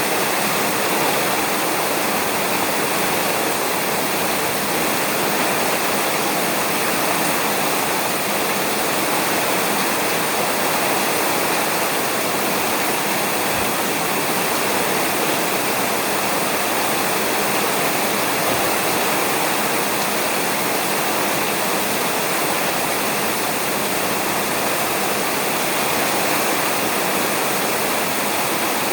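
Steady, heavy rain falling on a roof, an even, unbroken hiss.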